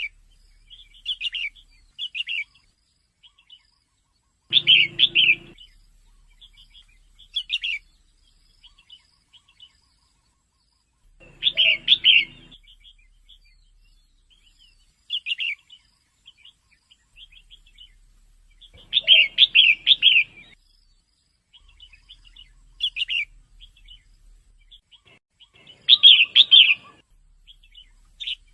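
Female red-whiskered bulbul calling: short high chirps scattered throughout, with louder runs of several chirps about every seven seconds. It is the kind of female call that keepers play to rouse caged male bulbuls.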